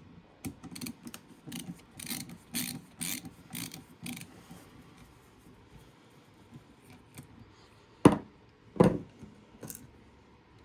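Screwdriver backing screws out of a small electronics unit's plastic stand: a run of ratchet-like clicks for about four seconds. Two sharp knocks follow near the end as hard parts are set down.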